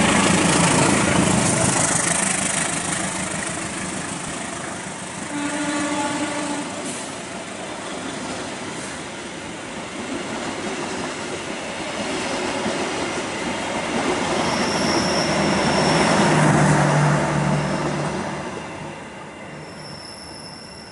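Diesel locomotive passing close by, its engine loudest at first, then a long train of passenger carriages rolling past on the rails. A brief pitched tone sounds about six seconds in, and a thin high squeal sounds around fifteen seconds in.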